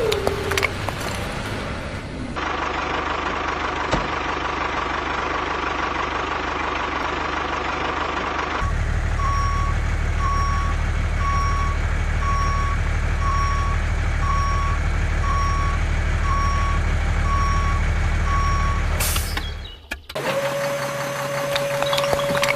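Truck engine running, then a reversing alarm beeping about once a second over the engine for around ten seconds. The sound cuts off abruptly, and a steady tone follows.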